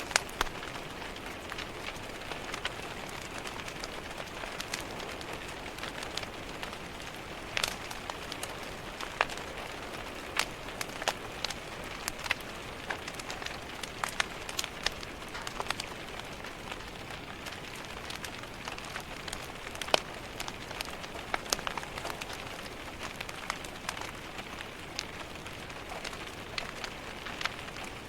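Steady rain hiss mixed with a crackling wood fire: many irregular sharp pops and snaps over the even patter, a few of them louder.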